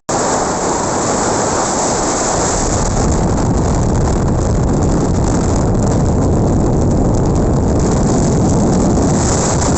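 Loud wind buffeting the microphone: a steady, rough rumbling hiss with no pitch in it.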